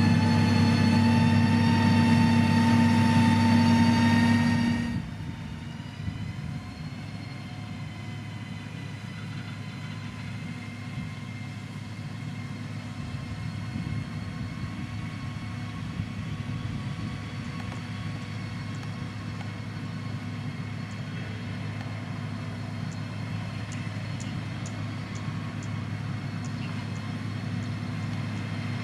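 Heavy diesel engine of road-construction machinery running steadily. About five seconds in it drops sharply to a lower, steady running sound.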